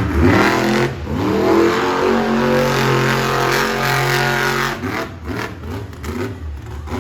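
Monster truck engine revving hard: the pitch climbs about a second in, holds at high revs for a couple of seconds, then drops off near the five-second mark.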